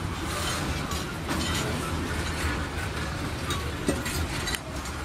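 Freight train wagons rolling past, steel wheels rumbling on the rails over a steady low drone, with a few short clanks.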